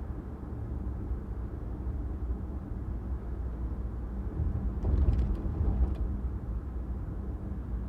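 Steady low rumble of a car driving through city streets, with a louder swell and a few faint clicks about five seconds in.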